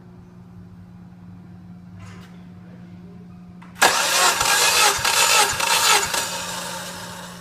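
Subaru EJ205 turbocharged flat-four engine starting: silence, then about four seconds in it cranks and catches suddenly and runs loudly for about two seconds, easing off near the end.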